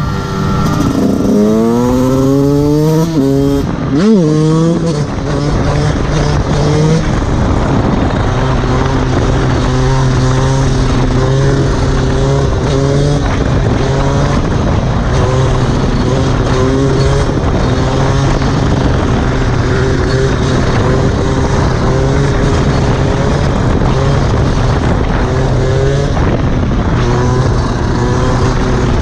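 Fantic XE 125 enduro motorcycle's single-cylinder engine revving up under acceleration, with a quick sharp rev spike about four seconds in. It is then held at steady high revs, rising and dipping slightly with the throttle.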